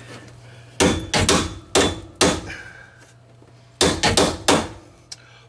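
Sharp knocks on sheet metal: four quick strikes in the first couple of seconds, then three more about four seconds in.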